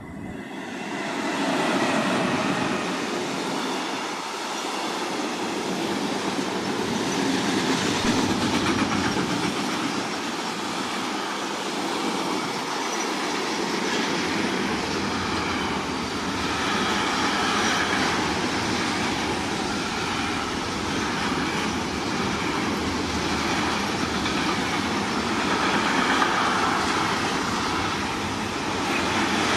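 Train passing at close range on the main line, its rolling noise building about a second in and then running on steadily.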